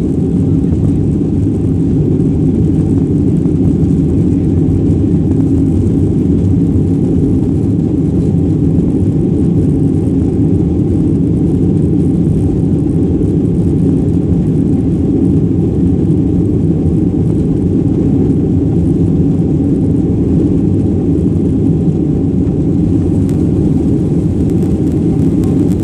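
Jet engines of a Ryanair Boeing 737 airliner at takeoff, a loud, steady low rumble with a faint hum above it.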